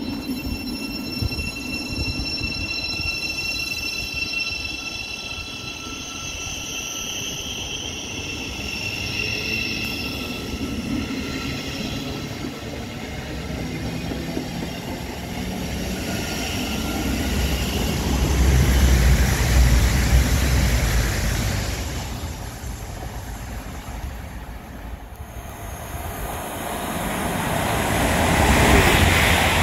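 Siemens Class 700 electric multiple unit pulling away, its traction motors whining in several steady tones that rise slightly in pitch and fade as it accelerates off, with a low rail rumble swelling midway. Near the end a Class 222 Meridian diesel unit approaches on the through line, its noise growing.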